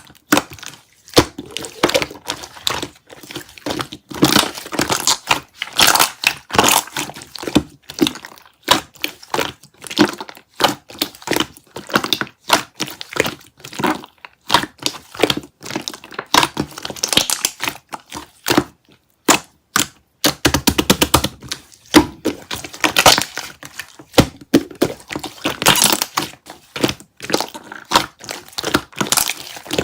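Slime being squished and pressed, giving a fast, irregular run of sharp crackles and pops.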